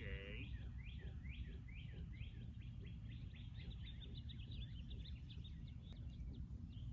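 A songbird singing a repeated series of short, downward-sweeping chirps, about two a second, quickening into a fast run about three to four seconds in, over a steady low outdoor rumble.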